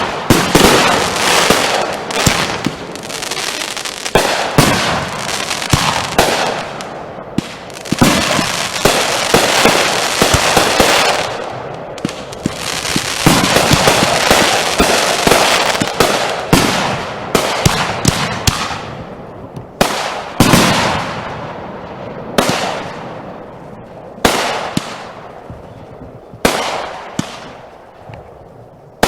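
Consumer fireworks going off in a rapid barrage of bangs and crackling bursts. Near the end the barrage thins to single loud reports about two seconds apart, each trailing off.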